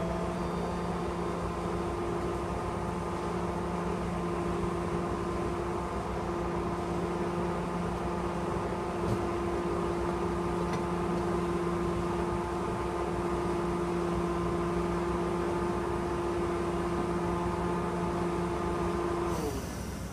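Stationary GO Transit commuter train at a platform: a steady mechanical hum with two held tones over a noise haze. Near the end the hum cuts off with a slight downward slide in pitch.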